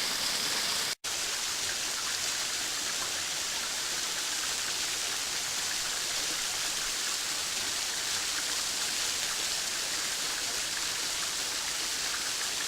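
Mae Sapok waterfall running thinly in the dry season: a steady hiss of falling and splashing water, with a brief total dropout about a second in.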